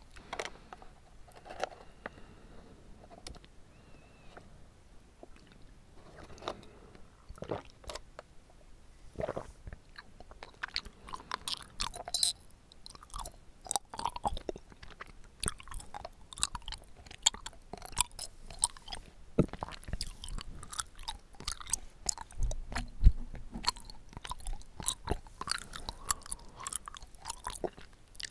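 Close-up chewing of bubble tea tapioca pearls: a steady run of short mouth clicks and smacks, getting busier about halfway through, with one sharper, louder click late on.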